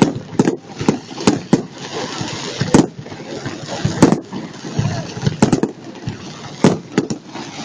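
Fireworks display: aerial shells bursting with a rapid, irregular series of sharp bangs, about a dozen, some in quick clusters, over a continuous crackle and rumble.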